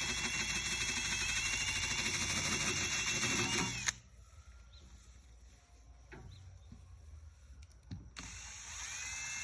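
Electric power sander running at a steady whine while sanding paint off a metal hood, then switched off about four seconds in and spinning down. After a few light knocks it starts again near the end, its pitch rising as it spins up.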